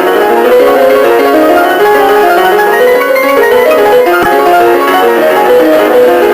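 Piano music played fast, a dense run of quick notes over the cartoon's score.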